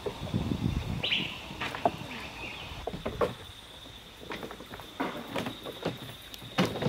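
A bird calls with a quick falling note about a second in, with weaker calls later. Scattered short knocks and splashes come from a bamboo raft being poled along the river.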